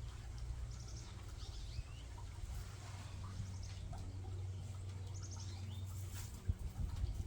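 Small birds chirping: short runs of quick high notes come several times, over a steady low hum.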